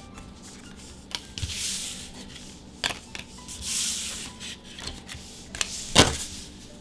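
Trading cards from a Magic: The Gathering booster pack being handled: soft swishes of cards sliding against each other, and sharp taps, the loudest about six seconds in.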